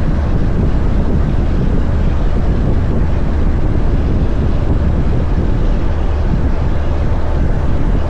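Heavy-haul semi truck on the move, a steady low engine drone under road and wind noise.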